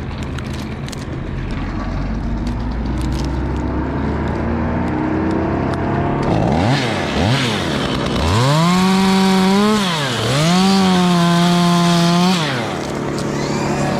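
Two-stroke chainsaw throttled up: two quick revs, then held at high revs twice for a second or two each, with a brief drop in between, before falling back. A lower, steadier engine sound runs under the first half.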